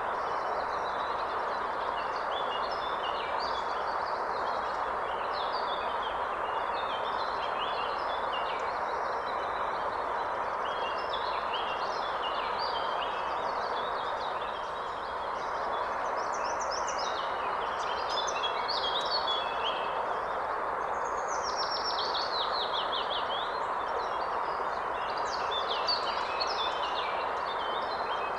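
A river running with a steady rush, overlaid by several songbirds singing in short chirps. About three quarters of the way through, a quick run of repeated downward-sweeping notes stands out.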